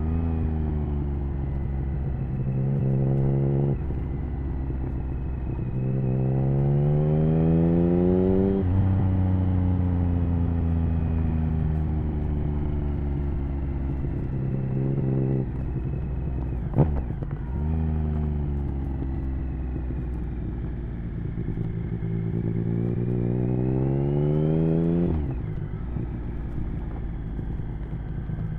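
Triumph Speed Triple 1050's inline-three engine through an HP Corse Hydroform exhaust, pulling through the gears: the revs climb in several pulls, each cut off by a sudden drop at a gear change, with long stretches of slowly falling revs as the bike rolls off. A single sharp crack sounds about two-thirds of the way through.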